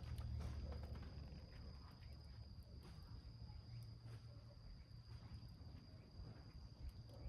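Small wood fire in a tin can crackling faintly, with scattered soft clicks and pops over a low rumble. A steady, high insect trill runs behind it.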